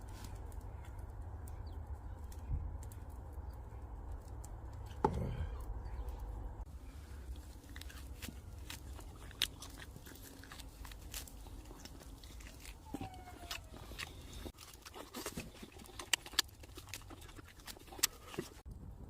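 A person chewing and biting meat off grilled pork ribs, with scattered wet smacks and clicks, a few louder ones near the end. A low steady rumble underlies the first several seconds.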